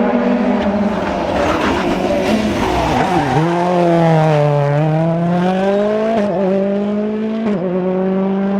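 Rally car engine on a special stage: the engine note dips as the driver lifts off about three seconds in, then climbs hard under acceleration, with two quick upshifts in the second half.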